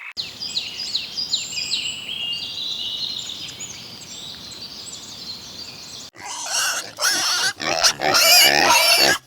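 Small birds chirping, many short high notes in quick succession. About six seconds in an abrupt cut brings a much louder animal's wavering cries, repeated several times.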